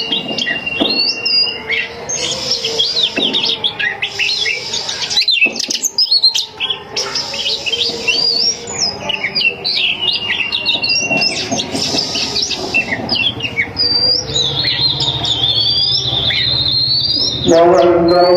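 Oriental magpie-robin (kacer) singing a long, varied song of rapid whistles, sweeps and harsh chatter, without pause. Near the end, music with a sung voice comes in.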